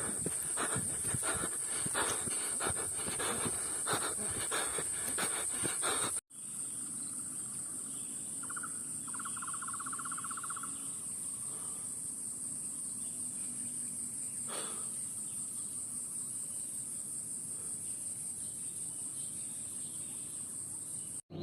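A steady, high-pitched insect chorus. For the first few seconds it comes with quick irregular rustling and crunching taps. A short buzzy trill comes about nine seconds in, and a single sharp tick later.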